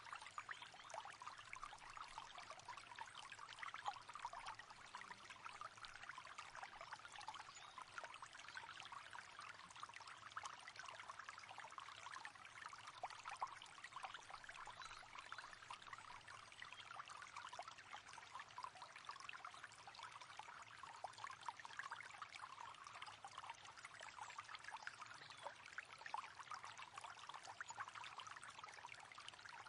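A river flowing steadily: continuous babbling and trickling of water over stones, low in level.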